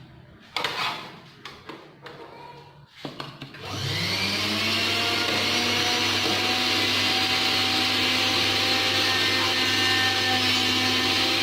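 A few knocks and handling clicks, then about four seconds in a mixer grinder's electric motor is switched on. Its whine rises quickly to speed and holds at a steady high-speed run.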